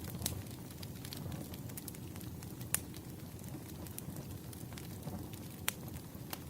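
Wood fire crackling: a steady low rumble of burning logs, scattered with small crackles and a few louder sharp pops, near the start, before halfway and near the end.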